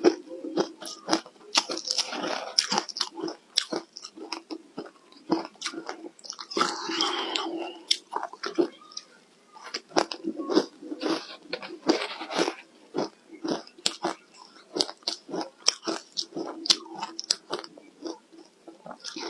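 Close-miked crunching of hard ice dusted with matcha powder being bitten and chewed. Sharp crunches come several a second, with denser crackling runs as mouthfuls are broken up.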